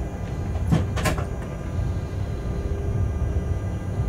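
Freight train heard from inside the locomotive cab: a steady low rumble and hum as it runs. About a second in come two sharp clicks close together.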